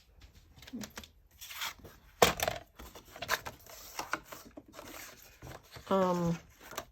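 Paper-crafting tools and cardstock being handled on a desk: scattered clicks and taps, with one sharp knock about two seconds in.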